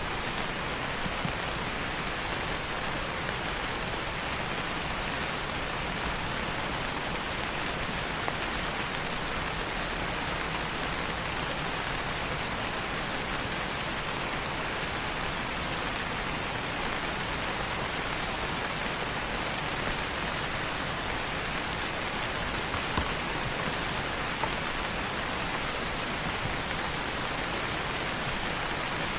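Steady rain falling, with a few louder single drops standing out now and then.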